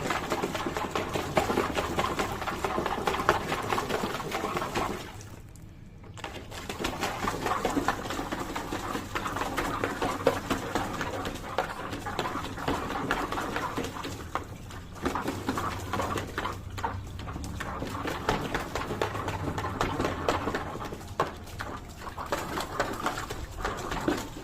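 A German Shepherd dog making continuous rapid close-up noises, with a brief pause about five seconds in.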